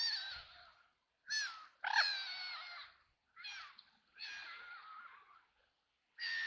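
White domestic ducks quacking in a string of about six separate harsh calls, some short and some drawn out, each falling slightly in pitch.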